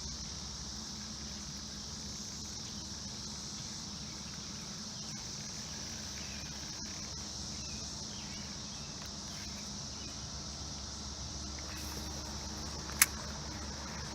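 Steady high-pitched drone of a cicada chorus, with a low steady rumble underneath. One sharp click about thirteen seconds in.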